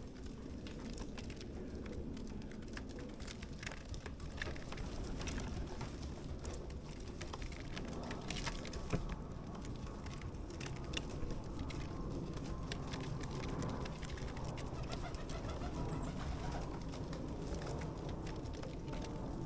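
Starlings squabbling at a garden bird feeder: a steady low chatter of calls, broken by many sharp clicks and taps.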